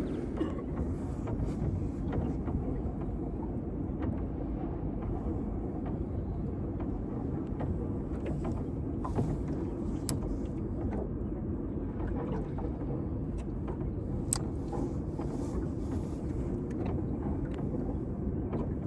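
Steady low rumble aboard a small fishing boat on the river, with a few light clicks and knocks.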